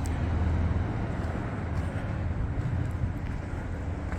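Steady rumble of road traffic on a busy bridge, an even noise strongest in the low end.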